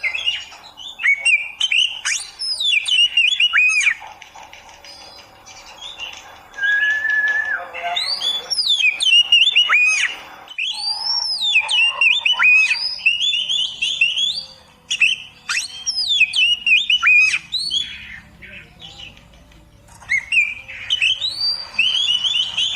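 Oriental magpie-robin (kacer) singing: phrases of quick, varied whistled notes sweeping up and down, broken by quieter pauses about four seconds in and again shortly before the end.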